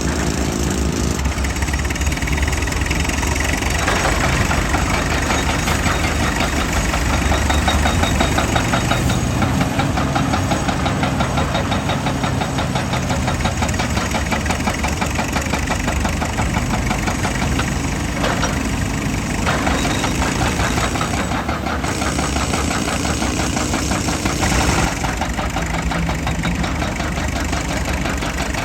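Heavy diesel machinery running with a rapid, even knocking, its character changing abruptly a few times.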